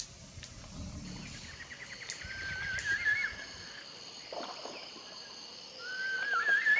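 A bird calling twice. Each call is a quick stuttering run of notes that runs into a thin, rising, wavering whistle, over a steady high background tone.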